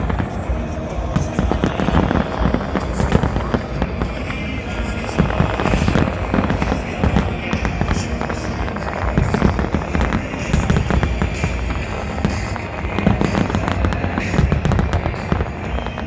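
Large professional fireworks display: a dense barrage of rapid, overlapping firework bangs and crackles, with music playing under it.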